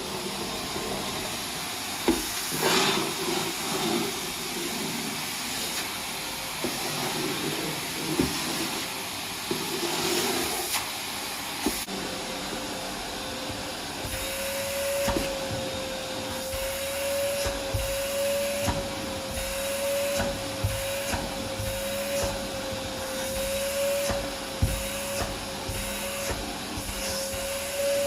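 Household vacuum cleaner running steadily, its motor hum wavering up and down in pitch from about halfway through, with scattered short clicks and knocks.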